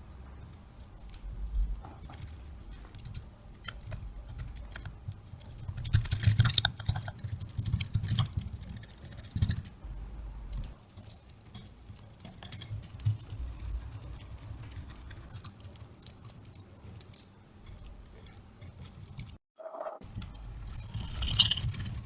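Rusty metal parts of a chaff cutter being handled: scattered clinks, clicks and scraping, busiest about six seconds in, with a brief hissing scrape near the end.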